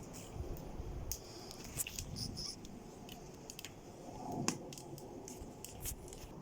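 Wood fire crackling: irregular sharp snaps and pops over a faint low rumble.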